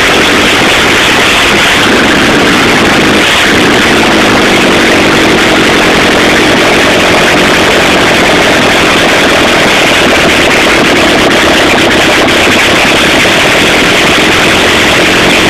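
Volvo car engine running loudly and steadily, with a brief shift in pitch about three seconds in.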